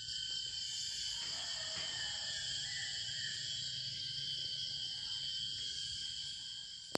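Night chorus of crickets and other insects: a steady, layered trilling at several high pitches. A single sharp click comes at the very end.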